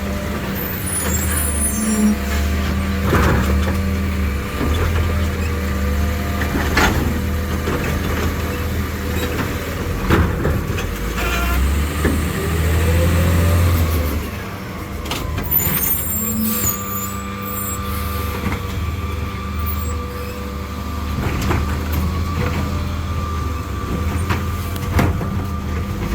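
Autocar ACX garbage truck with a New Way Sidewinder automated side arm working: the engine runs with a steady whine. Air brakes hiss about a second in and again about halfway through. Sharp knocks come every few seconds as bins are handled and dumped.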